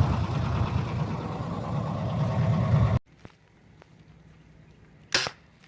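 Steady low rumble of a vehicle ride, cutting off abruptly about three seconds in. Near the end comes a single sharp pop from a BB gun shot.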